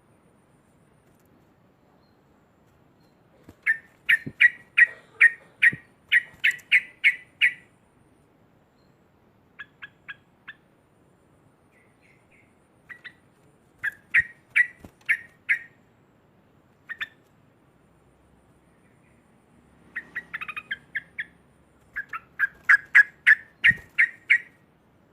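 Yellow-vented bulbul (trucukan) calling in loud bouts of sharp repeated chattering notes, about three a second, broken by pauses of a few seconds, with one faster jumbled bout near the end.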